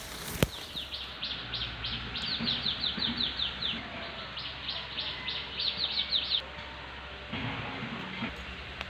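A bird calling in two quick runs of short, high, falling notes, about five a second, each run lasting two to three seconds. A sharp click sounds just after the start, and a brief rustle comes near the end.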